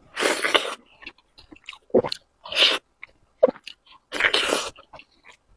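Close-miked eating sounds: chewing and wet mouth noises, with three louder noisy bursts about two seconds apart.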